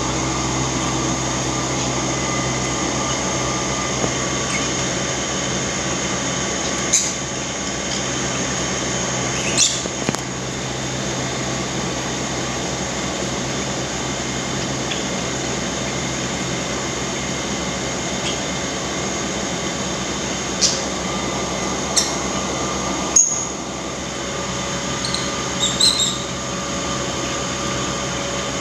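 Steady machine hum with a few fixed tones, with short, high bird chirps breaking in now and then, a small cluster of them near the end.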